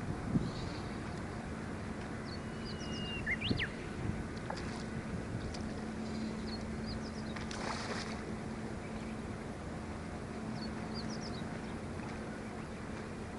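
Steady low drone of a boat engine out on the water, with birds chirping now and then over it.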